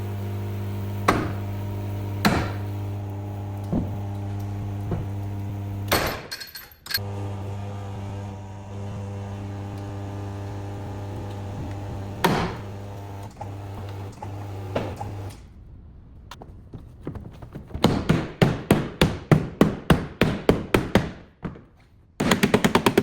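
Hammer blows on car body metal: single knocks every second or so over a steady machine hum, which stops about 15 s in, then a quick run of loud strikes, about three or four a second, from about 18 to 21 s. A rapid, rattling pneumatic-tool-like hammering starts near the end.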